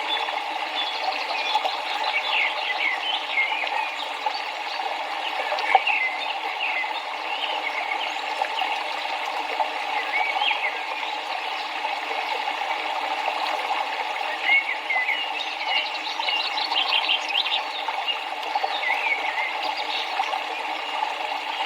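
Steady rush of flowing river water, with many short bird chirps over it.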